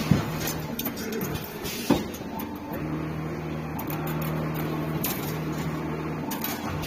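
A CNC 2D wire forming machine running: sharp clicks near the start and about two seconds in, then a steady low motor hum that starts and stops in roughly one-second steps as the machine feeds and bends the wire.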